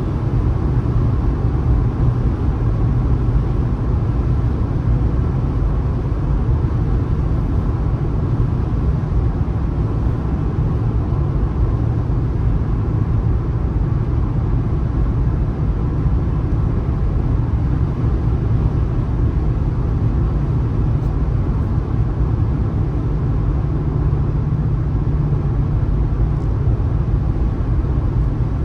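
Steady low rumble of a car driving along the road: tyre and engine noise with no change in pitch.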